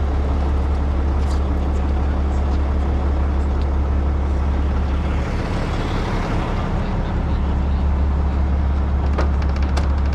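Heavy rotator wrecker's diesel engine running steadily as a low drone while it works the boom during a lift. The drone eases briefly around the middle, and a few sharp clicks come near the end.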